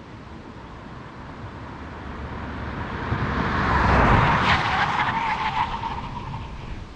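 A 2021 Kia Niro drives past: its tyre and road noise swells to a peak about four seconds in, then fades away.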